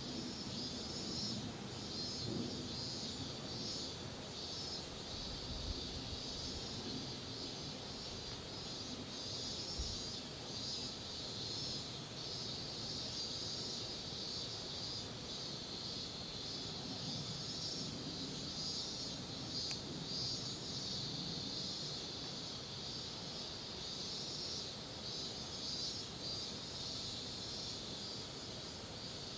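Insects chirring steadily outdoors: a continuous high buzz with fast, even pulsing in its highest part, over a low background hum.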